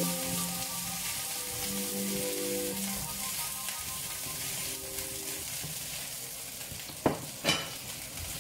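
Potato chunks sizzling as they fry in oil in a nonstick frying pan while being turned with a utensil. Two sharp knocks of the utensil against the pan come near the end.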